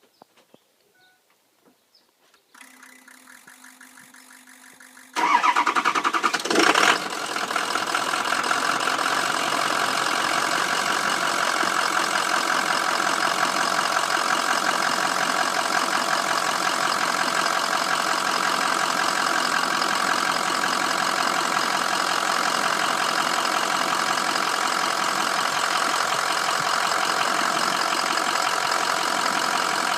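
Ford 6.0 Powerstroke V8 turbo-diesel starting: after a couple of seconds of a quieter steady whir, the engine catches about five seconds in, flares briefly and settles into a steady idle. It starts once the wiring loom has been moved, which the mechanic takes as the sign of a shorted wire loom behind the lost FICM sync.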